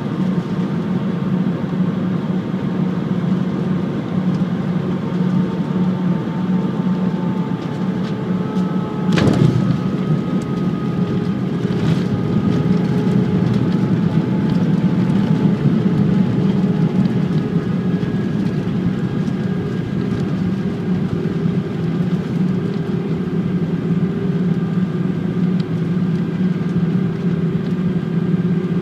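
Airbus A319 cabin noise on landing: the steady hum of the engines and airflow, with faint tones that drift slightly. A single heavy thump about nine seconds in, the main wheels touching down, then somewhat louder noise for several seconds as the aircraft slows on the runway, with a click a few seconds after the thump.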